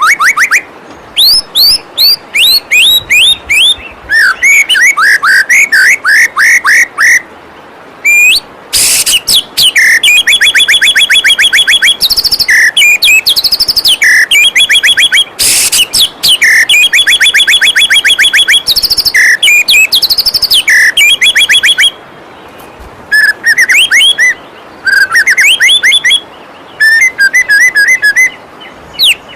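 White-rumped shama (murai batu) singing loudly in varied phrases of rapid whistled trills and repeated chirps, with brief pauses between phrases. The steady rush of a waterfall runs beneath the song.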